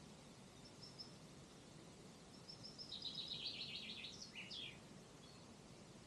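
A songbird singing one short song in the middle: a few high notes running into a fast trill, ending with two quick downward notes. A few faint high chirps come about a second in, over a faint steady outdoor hiss.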